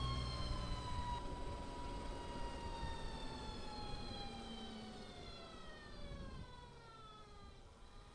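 Energica Experia electric motorcycle's motor whine, its pitch falling slowly and steadily as the bike slows, with a rush of road and wind noise underneath. The whine fades and reaches its lowest pitch near the end.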